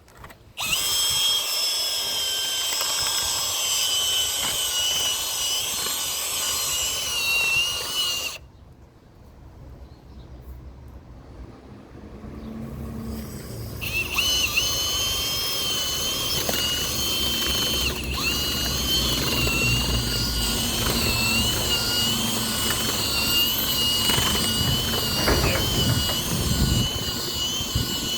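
Electric drill with a mixing paddle running at a steady high whine, stirring a batch of Rapid Set asphalt resurfacer. It stops about eight seconds in and starts again about five seconds later.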